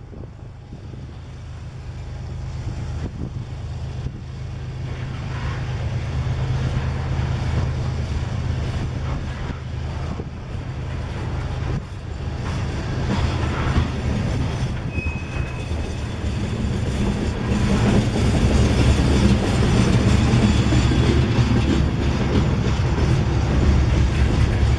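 Diesel-electric freight locomotives working hard upgrade, with a steady low engine drone that grows louder as the train approaches. A brief high squeal comes about fifteen seconds in.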